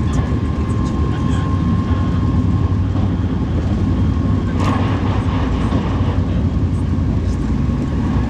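Alfa Pendular electric tilting train running at speed: a steady low rumble of wheels on rails, with a faint steady tone over it and a short louder rush of noise about halfway through.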